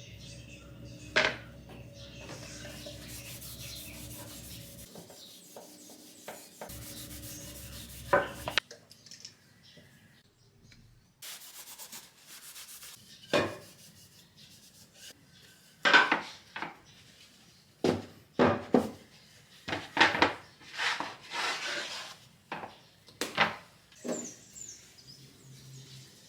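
Wooden boards being rubbed and scrubbed during a deep clean, in uneven short strokes. A steady low hum runs under the first third, and a quick run of sharp scraping strokes comes in the second half.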